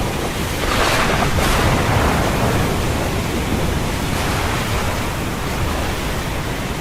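Storm wind and heavy seas: a steady loud rush of wind and water, with a surge of breaking wave or spray about a second in, cutting off suddenly at the end.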